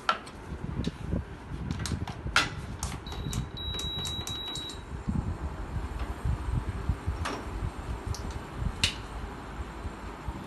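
Knife clicking against a chopping board a handful of times while mushrooms are sliced, over a steady low rumble. A thin high tone sounds for about two seconds near the middle.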